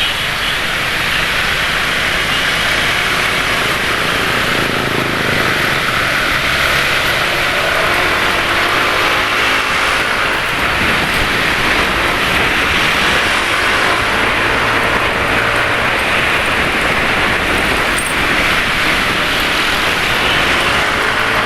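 Motorcycle traffic heard while riding on a road: a steady rush of wind and tyre noise with motorcycle engines running alongside, the pitch of a passing engine sliding about halfway through and again near the end.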